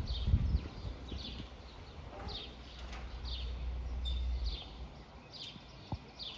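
Low rumble of thunder that fades out a little past halfway. Over it, a bird repeats a short, high, falling chirp about once a second.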